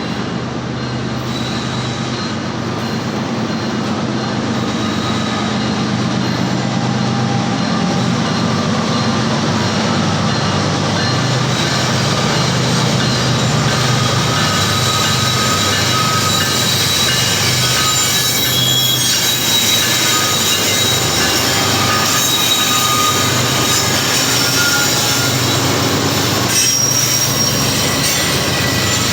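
A CSX freight train rolling past, its railcar wheels squealing on the rails with thin high-pitched squeals over a steady rumble. The sound grows a little louder over the first few seconds, then holds.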